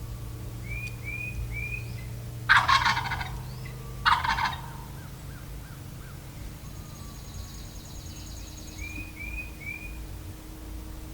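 Wild turkey gobbler gobbling twice, about two and a half and four seconds in, each gobble a loud rattling call about half a second long.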